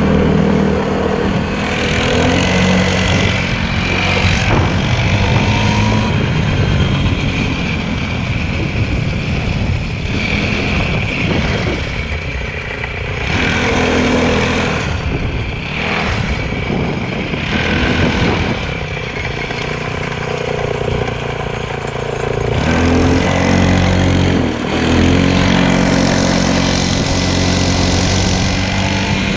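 Motorcycle engine running, its pitch shifting up and down with the throttle, with several brief rushes of noise.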